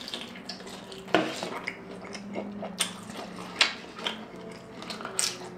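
Close-up chewing and wet mouth sounds from eating a consommé-dipped birria taco, with a few sharp clicks spread through.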